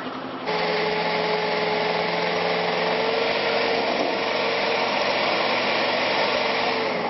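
A small engine running steadily at high speed, with a steady tone through the noise; it comes in abruptly about half a second in.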